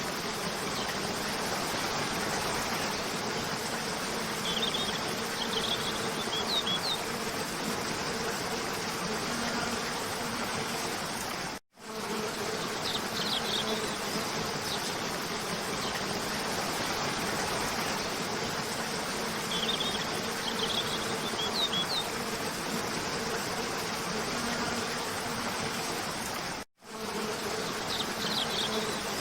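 Cascading waterfall water rushing steadily, with a faint steady hum underneath and short clusters of bird chirps a few times. The sound cuts out to silence for a split second twice, where the looped recording restarts.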